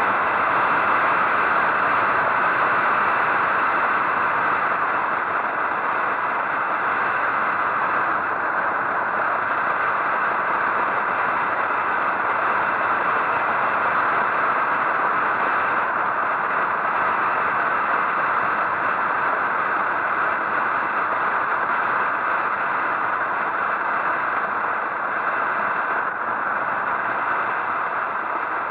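Steady rushing wind and road noise of a motorcycle ride, with no clear engine note standing out.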